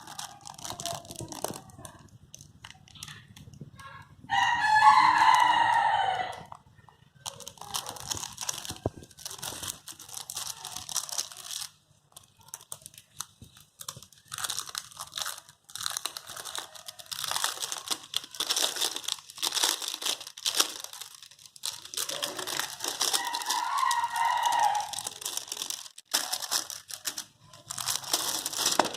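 Crinkling and crackling of a table tennis rubber's plastic packaging being handled and torn open. There are two louder pitched sounds of about two seconds each, one about five seconds in and one a little over twenty seconds in.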